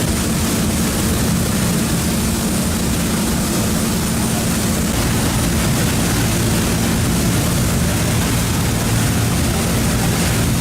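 Tour boat's engine running steadily underway, a constant low drone over a steady rushing hiss.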